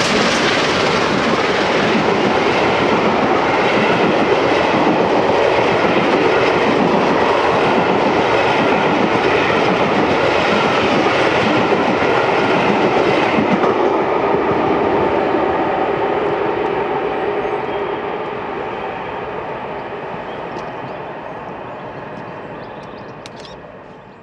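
Coaches of a steam-hauled passenger train rolling past at speed, wheels clattering in a rhythmic beat over a loud rush. About 14 seconds in, the sound starts to fade steadily as the train draws away.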